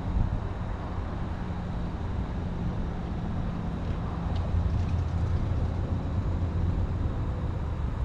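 Diesel train engine running with a steady low hum, swelling slightly in the middle.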